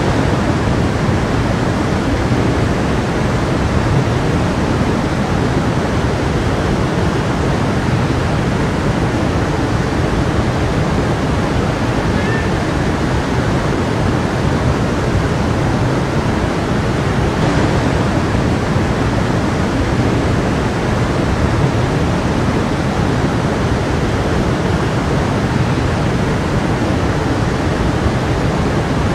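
Stream water flowing and rushing steadily, an even, unbroken noise.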